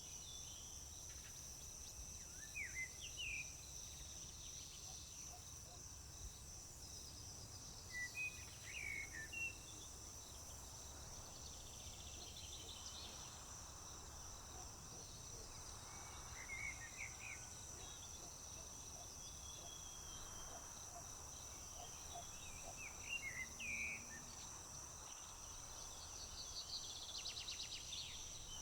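A steady, high-pitched insect trill, typical of crickets, runs under short bird chirps and song phrases every few seconds, with a quick run of repeated notes near the end. A faint low rumble sits underneath.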